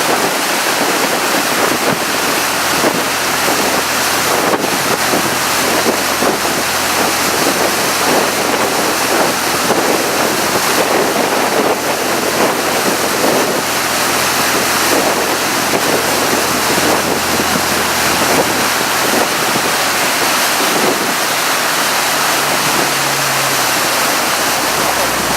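Steady loud rush of wind on the microphone and water streaming past the hull of a tour boat under way, with a low engine hum coming through near the end.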